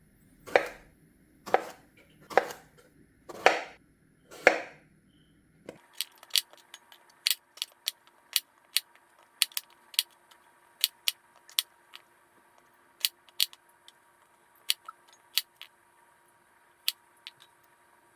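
Five slow knife chops on a cutting board, about one a second. A run of sharp, irregular light clicks follows.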